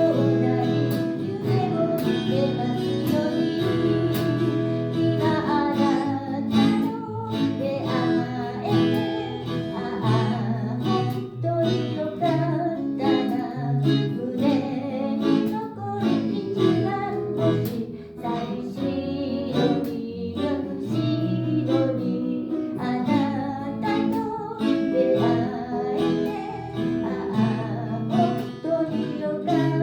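A vocalist singing a song with strummed acoustic guitar accompaniment.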